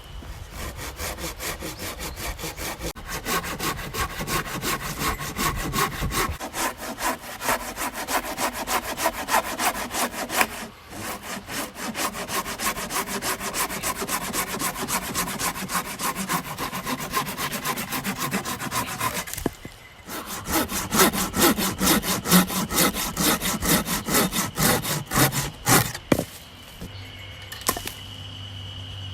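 Hand saw cutting through a fallen log in quick, even back-and-forth strokes, with two short breaks. The sawing stops a few seconds before the end.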